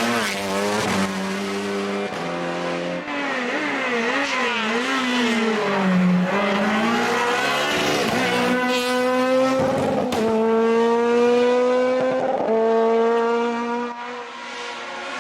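Hillclimb race car engine at racing speed. The pitch wavers up and down through the first half as the car brakes and gets back on the throttle, then rises steadily with two upshifts, the second about two and a half seconds after the first.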